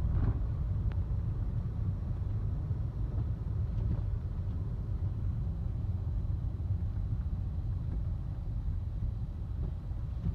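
Steady low rumble of a car driving on a plowed, snow-covered road, heard from inside the cabin: the car's Michelin CrossClimate 2 tyres rolling and the engine running.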